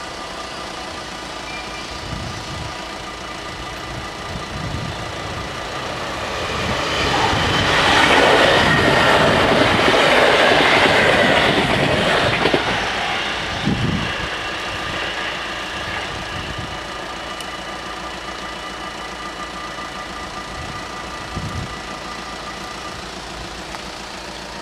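NS VIRM double-deck electric train passing over a level crossing, its rail noise swelling to loudest about eight to twelve seconds in and then fading away, with a clatter of wheels over the crossing. The crossing's warning bells ring steadily under it throughout.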